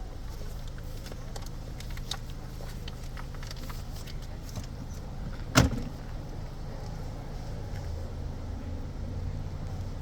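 Low steady rumble of a car engine idling, with scattered light clicks and one sharp knock a little past halfway.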